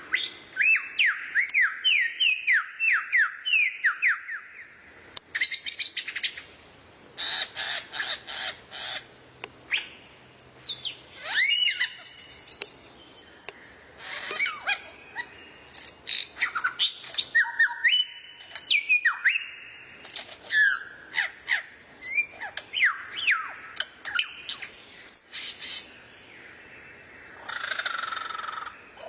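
Recorded songbird song: a varied run of fast, sharp down-slurred whistles mixed with rapid chattering phrases and short pauses.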